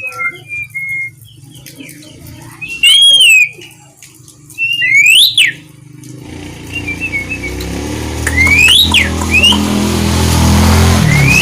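Asian pied starling (jalak suren) giving loud, sweeping whistled calls, a few at a time with pauses between. From about halfway, a motor vehicle's engine hum builds up and runs steadily under the calls.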